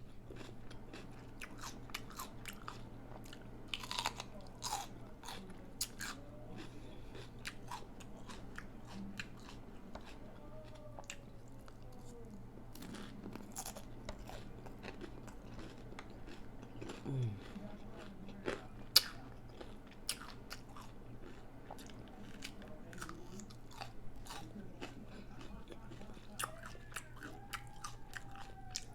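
Close-up chewing of a crunchy taco-boat shell: irregular sharp crunches and bites with wet mouth sounds, one crunch about nineteen seconds in louder than the rest.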